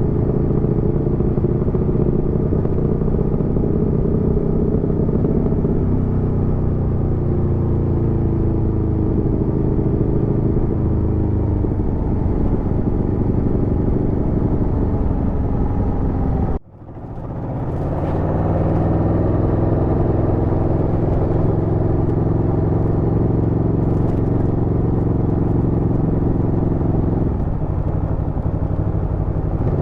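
Aprilia Tuono V4's V4 engine running at a fairly steady pace while riding, its pitch drifting gently. About two-thirds through, the sound drops out sharply for a moment and then returns.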